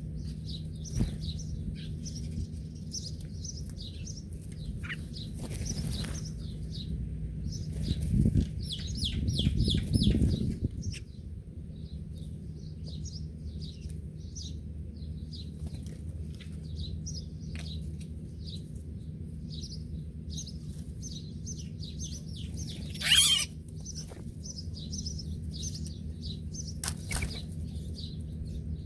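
Small birds chirping and twittering in quick, repeated short high notes, over a steady low hum. A louder low rushing noise comes about eight to ten seconds in, and one sharp loud burst about 23 seconds in.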